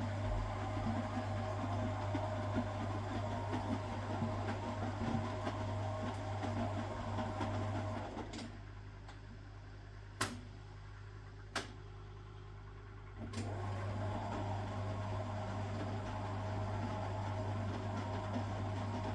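1969 Zanker VA520 washing machine running, its Hanning gear motor turning the drum with a steady hum. About eight seconds in, the motor stops for about five seconds, with two sharp clicks during the pause, and then it starts again.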